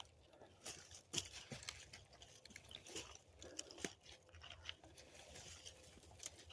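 Faint, scattered crunches and light knocks from handling oak logs and moving over dry ground.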